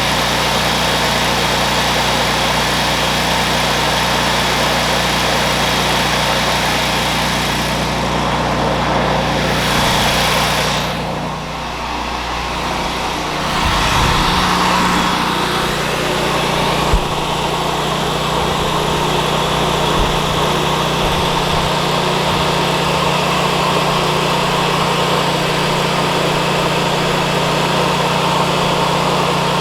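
An engine or motor running steadily, its tone dipping and shifting about eleven seconds in, with a single sharp click partway through.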